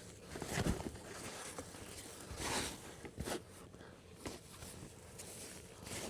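A few scattered knocks, scrapes and rustles of camping gear being handled, about a second apart.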